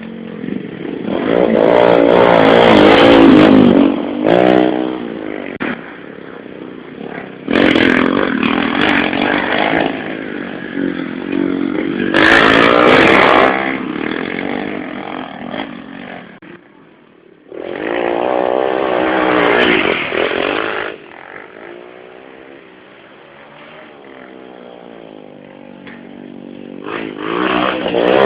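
110cc motorcycle engines revving hard and rising and falling in pitch as the bikes race past. The noise comes in several loud spells, some starting abruptly, with quieter engine noise between them.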